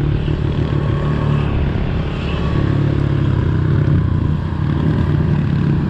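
Pit bike engines running at a steady cruise, with small rises and falls in engine speed.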